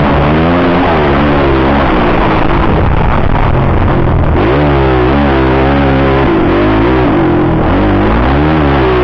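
Motocross bike engine revving up and down repeatedly, its pitch rising and falling about once a second as the rider opens and closes the throttle and shifts.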